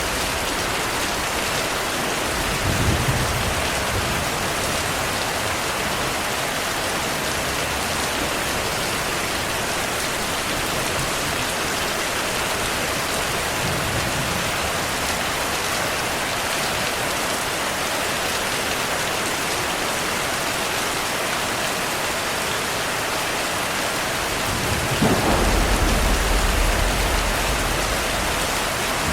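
Heavy rain falling steadily, with rolls of thunder: a short rumble about three seconds in, a fainter one midway, and a longer, louder roll of thunder near the end.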